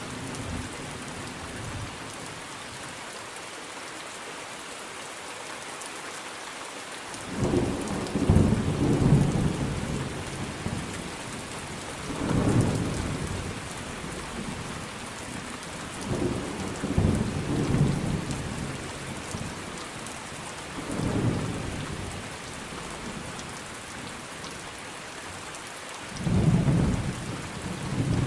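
Steady heavy rain with rolling thunder: about five low rumbles swell and fade over it, the loudest about eight seconds in and another near the end.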